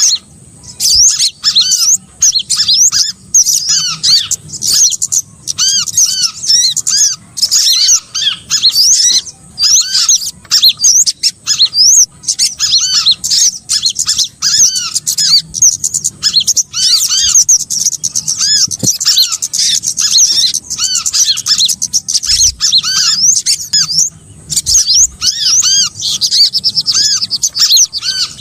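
Recorded lure calls of small songbirds, used by bird trappers: a dense, continuous chatter of quick, high, arching chirps repeated many times a second, with only brief pauses.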